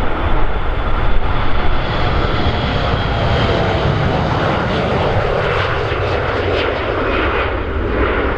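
Jet airliner's engines at takeoff power as it climbs out, a steady loud noise with a faint high whine that fades over the first few seconds.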